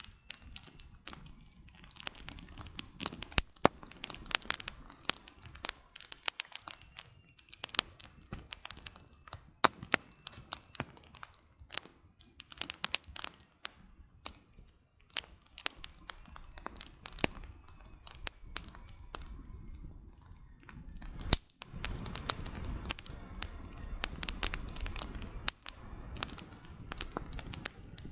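Wood campfire crackling: firewood popping and snapping in dense, irregular clicks. About three quarters of the way through, a low steady rushing noise joins in under the crackles.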